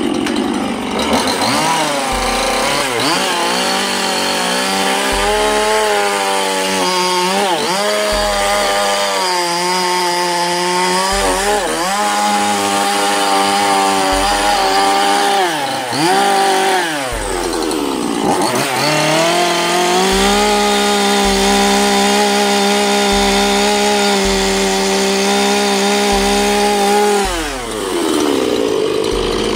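Chainsaw engine running at high revs while cutting wood, its pitch dipping several times as the cut loads it, then picking back up. It is a saw that the operator calls very blunt.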